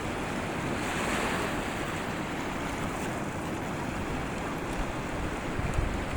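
Sea waves washing on the shore in a steady rush, with a swell about a second in. Wind rumbles on the microphone, strongest near the end.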